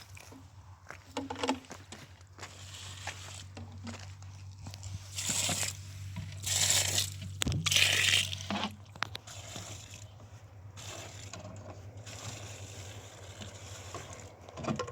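Scraping and rustling noises in several short bursts over a steady low hum.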